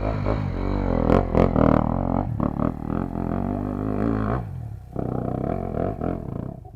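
Trail motorcycle engine running hard under load, its pitch rising and falling as the rider climbs. It eases off about four seconds in and picks up again a half-second later. The onlookers take the bike to be in too tall a gear, seemingly third.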